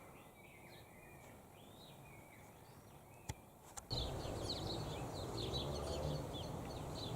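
Wild birds calling: faint whistled calls at first, then from about four seconds in a louder rushing background with many quick, high chirps over it.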